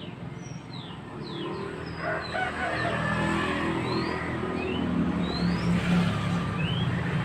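Mantenan songbird calling in short, sharp whistled chirps that glide up or down, about one or two a second, over a steady rush of flowing water and a low hum that grows louder after about two seconds.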